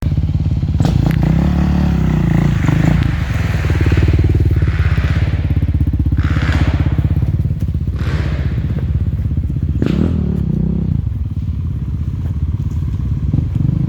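Enduro dirt bike engine running under throttle, the revs rising and falling several times, with a sharp knock about ten seconds in.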